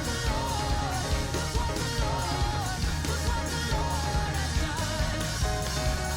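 Church worship band playing a song with a lead voice singing over bass, guitar and a steady beat.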